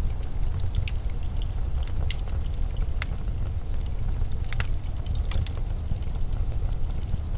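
Blizzard wind as a steady low rumble, with scattered sharp crackles and ticks over it at irregular moments.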